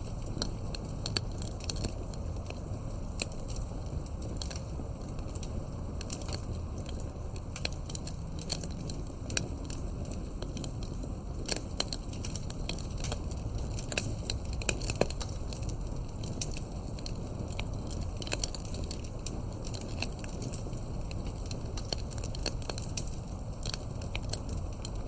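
Campfire burning with a steady low rumble and irregular sharp crackles and pops, a few louder pops now and then.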